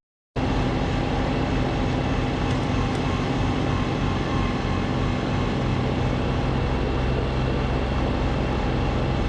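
Snowblower engine running steadily, loud and close. It cuts in suddenly about a third of a second in.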